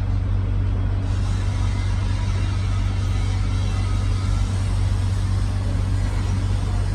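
Engine running steadily with a deep, even drone.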